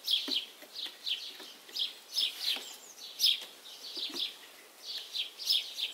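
Small birds chirping, a steady run of short high chirps several times a second, with a few light knocks from wooden hive frames being handled.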